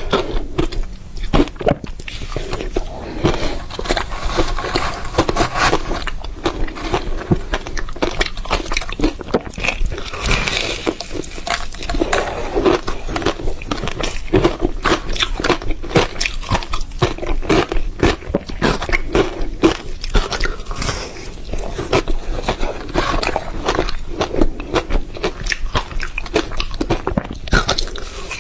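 Ice being bitten and chewed close to the microphone: continuous dense crunching and cracking as the ice breaks between the teeth.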